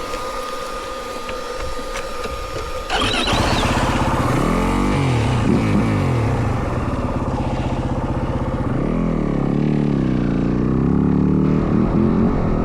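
Single-cylinder four-stroke dirt bike engine, a Yamaha WR450F, starting up suddenly about three seconds in, after a steady whine, then revving up and down repeatedly.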